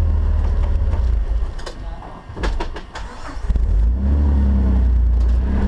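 Off-road 4x4's engine running with a heavy low rumble. It eases off for a couple of seconds in the middle, where a few sharp knocks come through, then picks up again.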